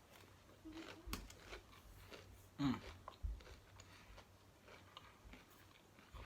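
A man chewing food with his mouth close to the microphone, with small wet mouth clicks. About two and a half seconds in there is one short voiced sound with a falling pitch, the loudest thing here.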